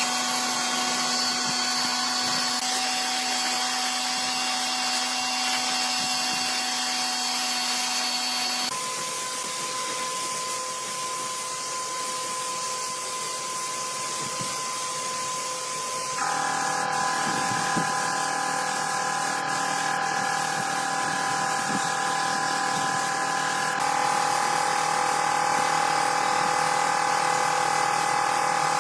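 An electric power tool running at a steady speed with a constant whine. The pitch of the whine changes abruptly about eight seconds in, about sixteen seconds in and about twenty-four seconds in.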